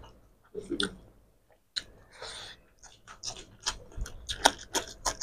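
Eating sounds: wet mouth clicks and smacks of chewing curry and rice eaten by hand, sparse at first and then coming quickly in a run of sharp clicks through the second half.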